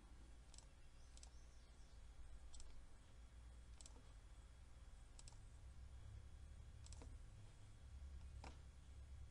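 Computer mouse clicking, about seven single clicks a second or so apart, over a faint low hum.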